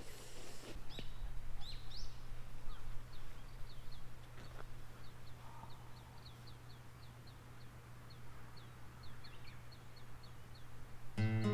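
A small bird calling outdoors: a long run of short, high, downward chirps, two or three a second, over a steady low hum. Background music comes in right at the end.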